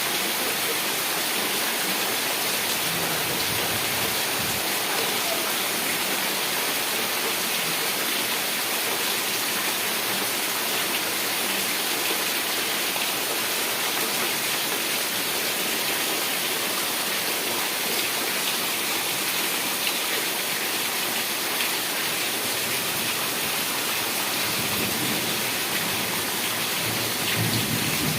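Heavy rain falling in a steady, even hiss, with a low rumble of thunder coming up near the end.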